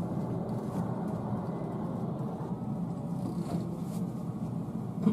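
Steady low hum and rumble inside a JR West 225 series electric train car at a slow crawl into a terminal platform, without any sudden sound.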